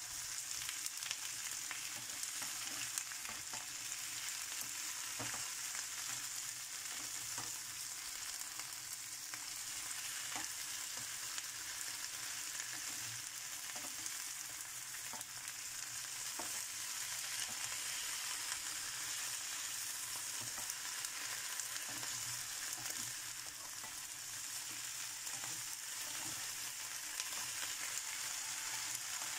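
Whole prawns and sliced onion sizzling in a hot wok: a steady high hiss, with occasional light knocks and scrapes of a wooden spatula stirring them.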